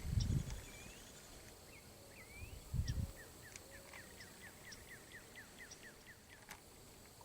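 A bird calling outdoors: a few rising chirps, then a quick run of short falling chirps, about four a second. Low thuds come at the very start and again about three seconds in.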